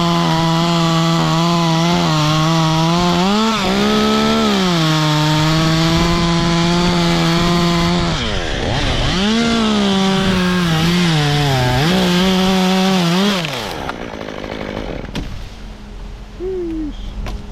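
Two-stroke chainsaw running at high revs while cutting wood, its pitch rising briefly when it frees up, dropping out about eight seconds in, then revving and cutting again before stopping about thirteen seconds in. Wind and rustling branches follow.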